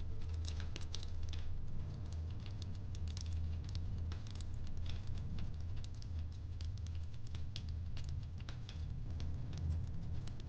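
Fireplace crackling: irregular small pops and snaps over a steady low rumble.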